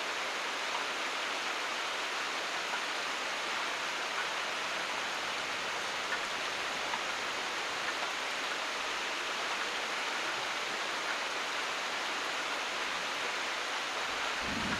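Steady heavy rain falling, an even hiss with a few separate drops ticking through it. A low rumble begins right at the end.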